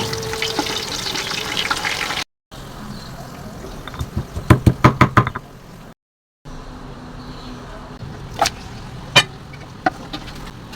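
Kitchen cooking sounds across three edited cuts: first a steady hiss, then a quick run of sharp clinks and knocks, then a few separate clicks over a quiet background.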